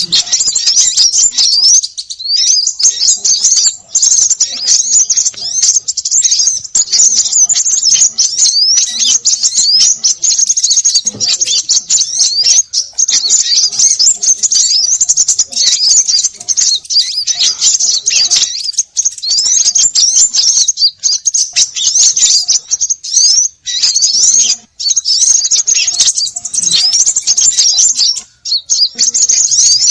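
Dense chatter of many small birds calling at once, rapid high chirps and short rising notes overlapping almost without pause, with a few brief gaps. It is a 'noisy birds' lure recording, the kind played by bird catchers to draw small birds in.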